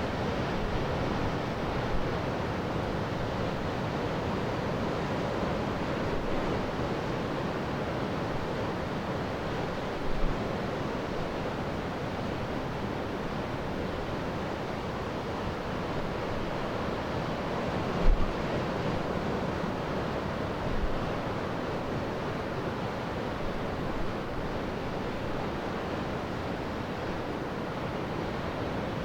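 Steady wind and surf noise on an exposed coast. A few gusts buffet the microphone with low thumps, the strongest about 18 seconds in.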